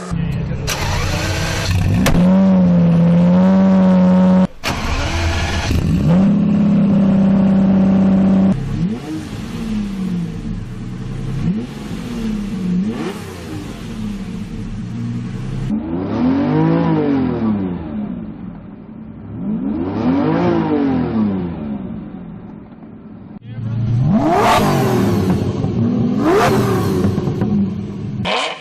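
Lamborghini Diablo V12 engine revving hard: first held at high revs for a couple of seconds at a time, then a run of quick throttle blips about every second and a half, then longer rises and falls in pitch. The sound cuts off abruptly several times, as clips are spliced together.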